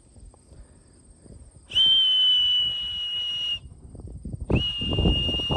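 A person whistling two long, steady high notes, the first about two seconds long, the second starting about a second after the first ends; the kind of whistle a pigeon fancier uses to call returning racing pigeons down to the trap.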